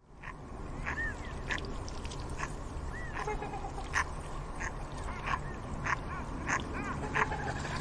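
Swans calling: a run of short calls about every half second, with a few higher, arching notes between them over a steady low rumble.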